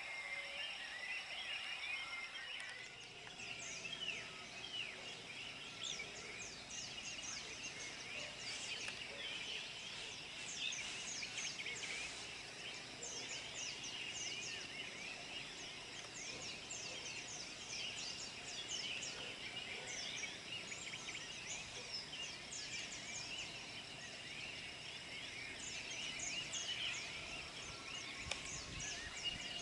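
A dense chorus of many birds chirping and calling in short, quick notes, over a steady outdoor background.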